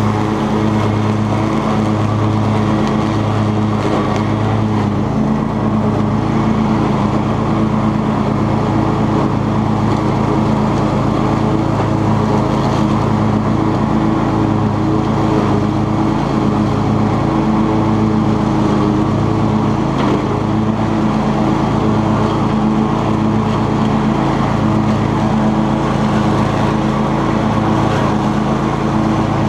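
Cub Cadet XT2 riding lawn tractor running steadily under load while mowing, its engine hum holding an even pitch over the noise of the 42-inch deck's spinning blades.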